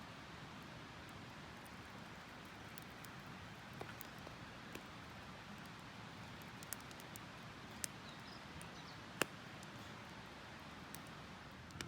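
Steady faint hiss with a scattering of short sharp clicks and taps, the loudest about nine seconds in.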